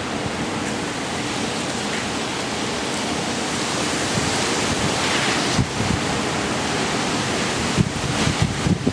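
Tropical-storm-force wind rushing in a loud, steady hiss, with gusts buffeting the microphone near the end.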